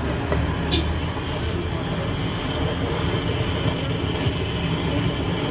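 A machine running with a steady low rumble, with a few faint clicks near the start.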